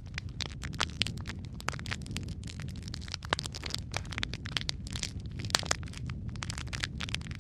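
Wood fire burning in a fireplace: a steady low rumble of flames with dense, irregular crackles and sharp pops.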